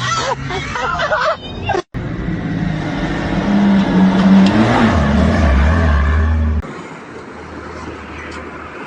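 A motor vehicle's engine running with road noise, loud for a few seconds and then dropping to a quieter steady hum near the end; shouting voices are heard briefly at the start.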